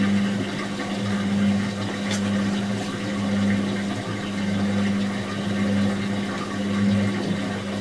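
Whirlpool AWG023 top-loading washing machine giving a steady low hum that holds one pitch, with a faint wavering in level.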